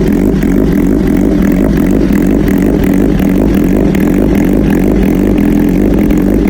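Suzuki GSX-R1000 inline-four running through an Arrow Pro-Race titanium full exhaust, idling steadily after a cold start. The loud exhaust note holds an even pitch.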